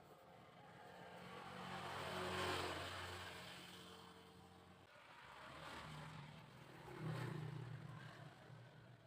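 A low, engine-like drone that swells and fades several times, loudest about two and a half seconds in and again about seven seconds in.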